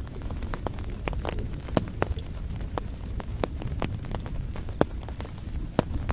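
Heavy raindrops and drips striking a hard surface in irregular sharp taps over a low rumbling wash of rain noise.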